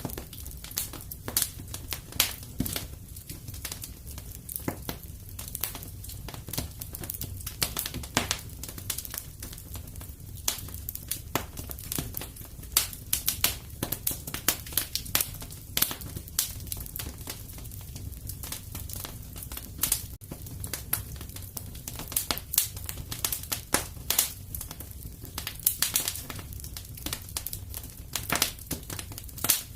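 Wood fire in a fireplace crackling, with frequent irregular sharp pops and snaps over a low, steady rumble.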